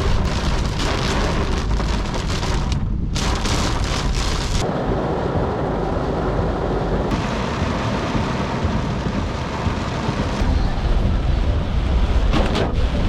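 Heavy tropical rain pouring down, with a deep low rumble underneath. The sound shifts abruptly a few times.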